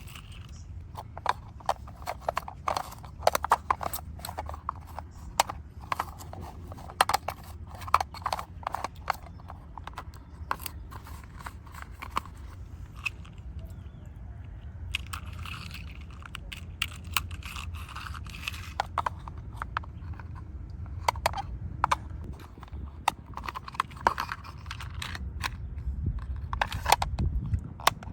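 Irregular clicks, taps and crunchy scraping from a small diecast model car being handled and cleaned, over a steady low hum.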